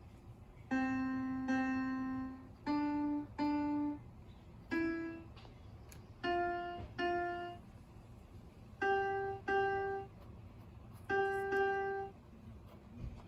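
Computer-generated piano-like notes triggered through a Makey Makey music controller: single sustained notes, mostly played twice in a row, stepping up in pitch as a simple melody.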